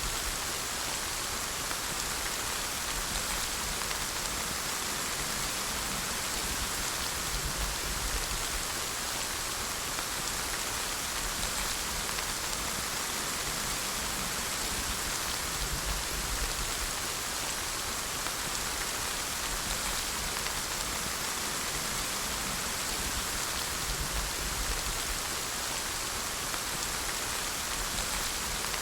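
Steady, even rain falling on hard surfaces, with a faint low rumble underneath.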